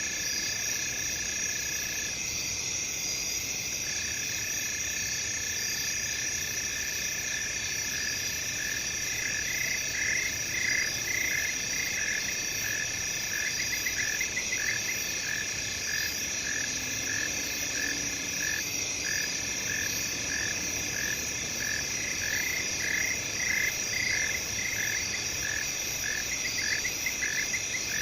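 Night field chorus of crickets, a steady high chirping in several layers. From several seconds in, a repeated call pulses about twice a second, with short trills breaking in over it every few seconds.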